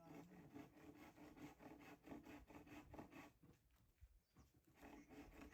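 Wood fire being fed with firewood: a dense run of small crackles and scrapes, thinning briefly about four seconds in.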